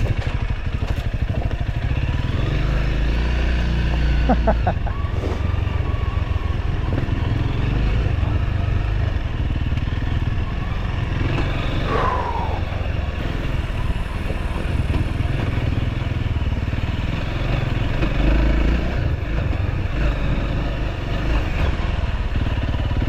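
Motorcycle running steadily while riding, with a heavy low rumble throughout. A brief wavering tone cuts through about twelve seconds in.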